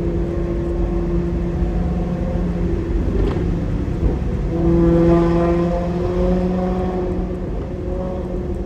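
Maserati GranTurismo's 4.2-litre V8 running through a Kreissieg aftermarket exhaust at steady revs, the note swelling louder about halfway through and then easing back.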